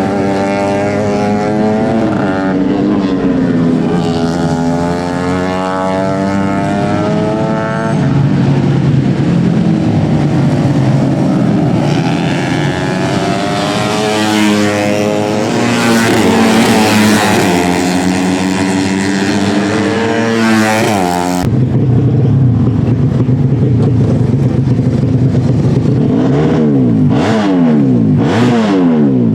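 Tuned four-stroke 130 cc underbone race motorcycles running hard at high revs, several engines at once, their pitch climbing and dropping through the gears. The sound changes abruptly about three-quarters of the way through, followed by quick rising and falling sweeps near the end.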